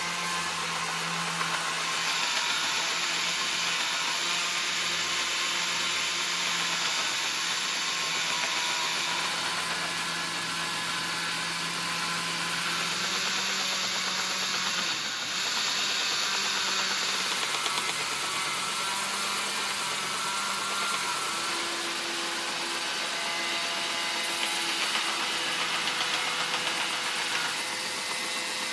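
A workshop power tool's electric motor running steadily with a continuous hiss, its low hum shifting slightly in pitch a few times.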